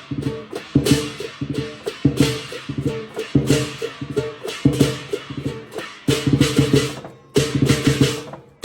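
Lion dance music: a drum beaten with crashing cymbals in a driving rhythm, breaking off twice for a moment near the end.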